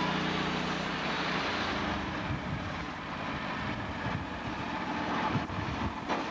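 Sawmill machinery running: a steady engine hum that turns rougher and more irregular about one and a half seconds in.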